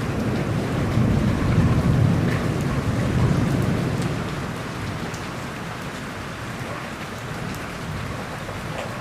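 Steady rain with a low rumble of thunder that swells about a second in and dies away after about four seconds.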